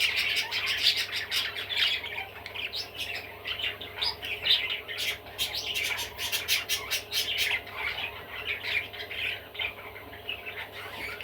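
Budgerigar chattering and warbling without pause, a fast run of chirps and squawks with short clicks mixed in.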